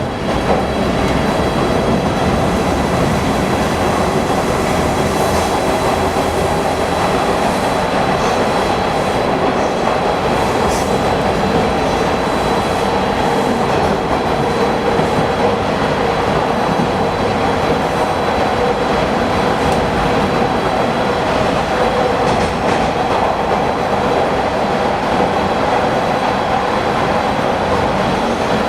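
Bombardier T1 subway car heard from inside while running steadily between stations: even wheel-and-track noise with a few steady tones above it.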